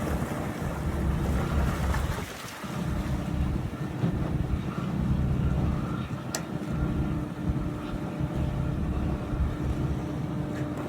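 Lobster boat's engine running steadily, with wind gusting on the microphone. A single sharp click about six seconds in.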